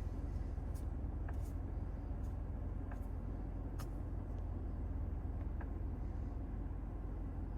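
Steady low rumble of engine and road noise heard from inside the cabin of a 2025 Mazda CX-5 with the naturally aspirated 2.5 e-SKYACTIV G engine, with a few faint clicks scattered through it.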